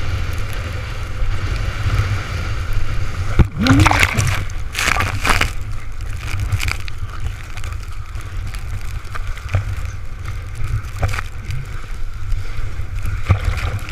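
Gale-force wind buffeting the microphone as a constant low rumble, with storm waves splashing and sloshing around the windsurfer, loudest in a run of splashes about four to five seconds in.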